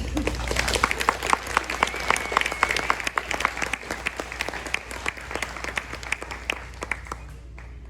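Audience applauding, the clapping loudest in the first few seconds and tapering off until it dies away near the end.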